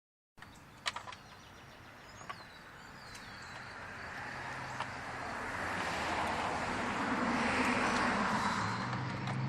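A road vehicle going by: tyre and engine noise grows steadily louder over several seconds and peaks near the end, with a low engine hum.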